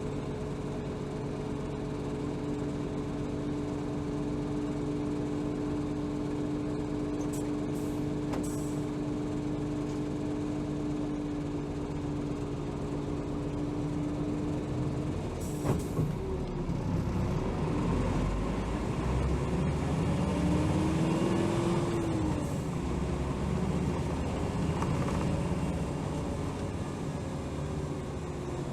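Hino Rainbow HR city bus (BDG-HR7JPBE) heard from inside, its diesel engine idling steadily while stopped. About fifteen seconds in comes a short sharp hiss, typical of the air brake releasing, then the engine revs and rises in pitch as the bus pulls away and accelerates.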